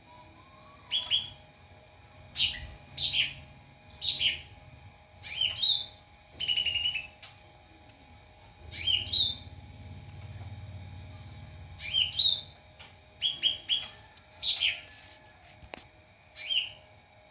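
White-rumped shama (murai batu) singing: a string of about a dozen short, loud phrases, most of them quick whistles sweeping down from very high to mid pitch, with brief pauses between them.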